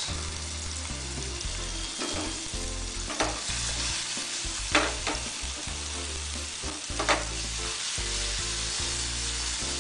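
Tomato, dried red chilies, ginger and garlic sizzling steadily in hot oil in a non-stick frying pan over a high gas flame, being roasted until they char in spots. A few sharp clanks, loudest at about five and seven seconds in, as the pan is moved on the burner.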